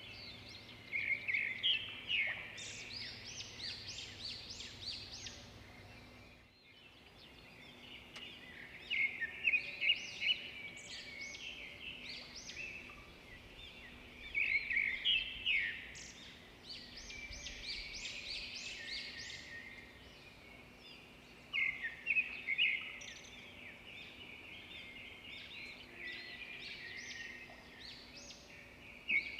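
Birds singing: bursts of rapid, high twittering chirps that recur every few seconds, over a faint steady background.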